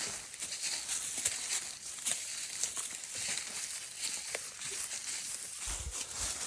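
Footsteps through dry leaves and brush: steady rustling and crackling with many small irregular snaps.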